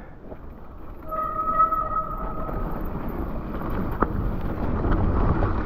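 Mountain bike rolling down a steep, muddy chute: tyre and wind noise builds as it picks up speed. A brief steady squeal sounds about a second in, and a sharp knock comes about four seconds in.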